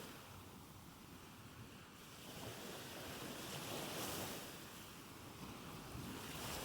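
Soft ocean waves washing in and receding, a bed of surf sound. One slow swell rises and falls through the middle, and another builds near the end.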